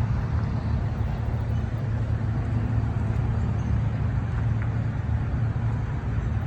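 Car engines and road traffic making a steady low rumble, with no revving or sudden bursts.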